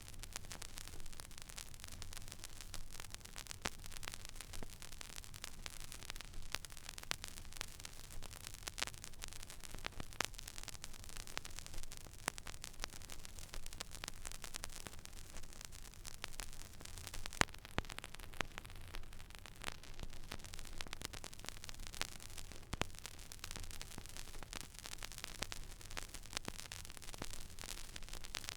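Stylus riding an empty vinyl record groove: steady surface hiss with irregular crackles and pops, and a faint low hum. One pop about 17 seconds in stands out louder than the rest.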